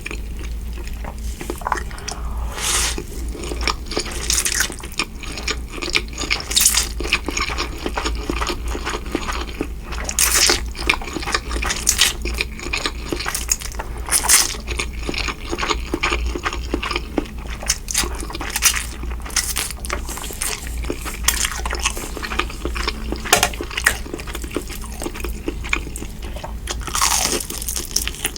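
Close-miked eating: irregular chewing and crunching with wet mouth clicks, over a low steady hum.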